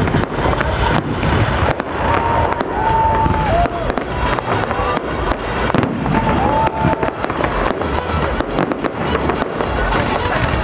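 Fireworks display: a rapid string of bangs and crackling over a dense low rumble from many shells bursting one after another, with a few short whistling tones now and then.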